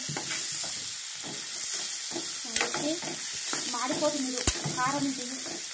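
Chicken pieces frying in oil with onion and chilli in a frying pan, sizzling steadily, while a steel spoon stirs and scrapes through them with scattered light clicks.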